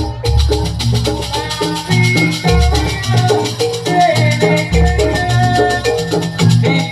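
Live jaranan gamelan music: fast, dense percussion over a quick-stepping melody of pitched metal tones, with a deep gong-like stroke about every two seconds.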